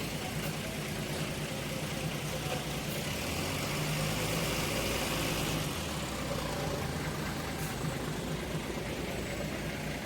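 Large diesel engine idling steadily, swelling a little about halfway through before settling back.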